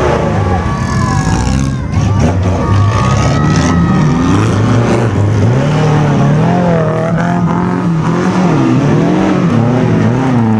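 Off-road 4x4 engines running close by, revving so that their pitch keeps rising and falling.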